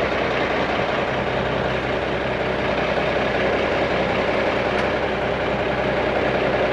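A heavy diesel engine running steadily, without revving.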